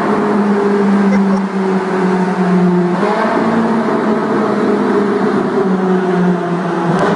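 Ferrari 458 Italia's V8 engine running at steady revs, heard from inside the cabin in a road tunnel; its note changes about three seconds in.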